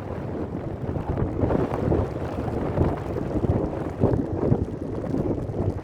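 Wind buffeting the microphone in uneven gusts, a dense rumble that swells and drops from moment to moment.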